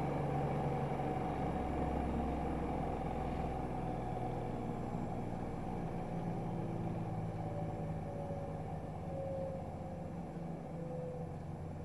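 AEG Öko-Lavamat washing machine's inverter-driven induction motor and drum winding down from a spin, a low hum with a whine that slowly falls in pitch and gets gradually quieter.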